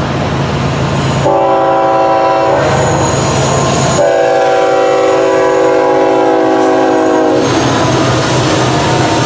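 Locomotive air horn sounding a chord of several notes: a short blast about a second in, then a long blast of about three and a half seconds, over the steady rumble of a passing train. The short-then-long ending matches the close of a grade-crossing horn signal.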